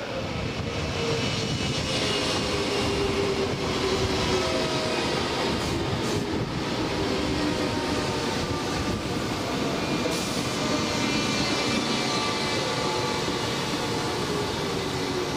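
A Keikyu electric train running through the station past the platform: a steady rumble of wheels on the rails, with a whining tone from the train that slides slowly down in pitch.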